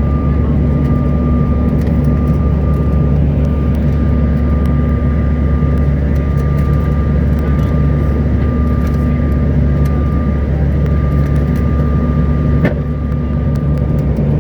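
Steady cabin noise of a CRJ900 jet airliner in flight: a deep rumble of airflow and the rear-mounted turbofan engines, with a steady high whine. A single click comes near the end.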